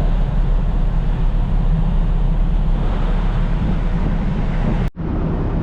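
Wind buffeting the microphone over a ferry's steady low rumble, with a sudden short break about five seconds in.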